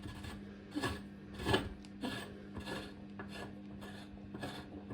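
Metal scrapes and clicks of tap parts and hand tools being handled as a bath tap is stripped down to its washer, with sharper knocks about a second and a second and a half in.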